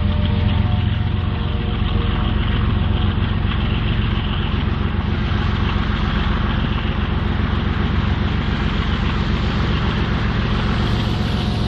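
BNSF diesel locomotive running steadily: a deep, even engine drone with a hiss over it.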